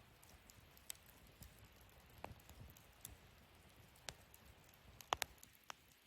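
Wood fire burning in a fire pit, crackling quietly with scattered sharp pops at irregular intervals; a close pair of louder pops comes about five seconds in.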